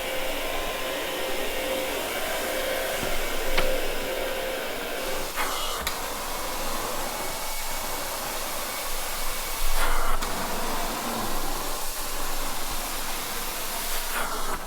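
Truck-mounted carpet extraction wand running steadily: a constant rushing hiss of vacuum suction pulling up the rinse water, swelling briefly louder a few times as the wand is worked across the carpet.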